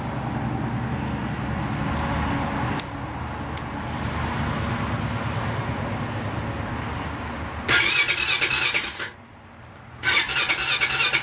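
Cold start of a 2008 Honda Foreman ATV on choke: the electric starter cranks twice, about 1.5 and 2 seconds each with a short pause between, without the engine catching. Before that a steady low rumble runs for most of the first seven seconds.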